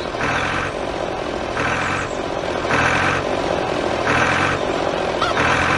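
Tractor engine running steadily, with a louder pulse about every second and a quarter.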